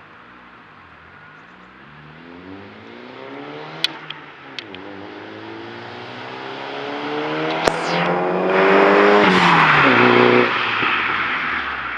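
Saab 9-3 with a 3-inch turbo-back exhaust accelerating hard, its engine note climbing through a gear change about four seconds in, with a few sharp cracks around the shift. It is loudest as the car goes by, then drops in pitch and fades away.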